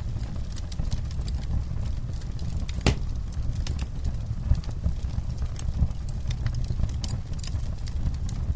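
Campfire crackling: frequent sharp snaps and pops of burning wood over a low, steady rumble, with one louder pop about three seconds in.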